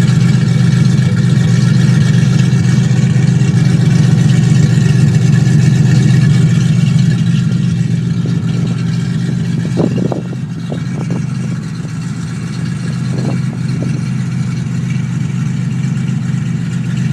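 Ford 5.0 V8 (302) running at a steady idle through SpinTech Pro Street 9000 mufflers and a catless X-pipe, dumping out with no tailpipes. The exhaust note eases down a little partway through, with a few brief clicks around ten and thirteen seconds in.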